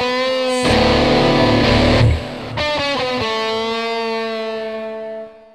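Music led by distorted electric guitar, ending on a held chord that rings out and fades away near the end.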